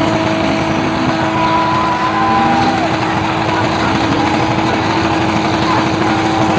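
Car engine held at high revs with tyres squealing in wavering bursts: a burnout or donut on the track.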